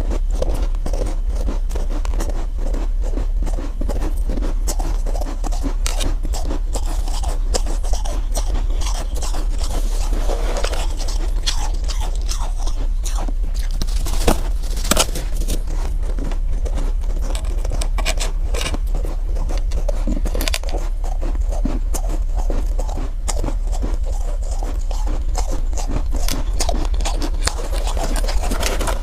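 Soft, powdery ice being bitten, crunched and chewed close to the microphone, with dense irregular crackles and scraping throughout, over a steady low hum.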